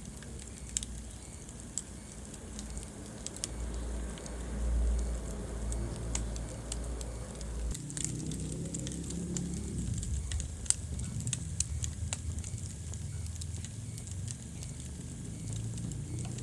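Wood fire burning in a fireplace: steady crackling with many sharp pops, over a low rumble.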